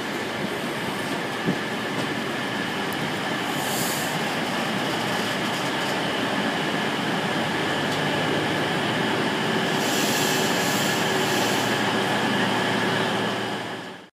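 CrossCountry High Speed Train running along a station platform, heard from a coach window: steady rumble of the wheels and running gear, with brief high squeals about four seconds in and again from about ten to twelve seconds. The sound fades out suddenly just before the end.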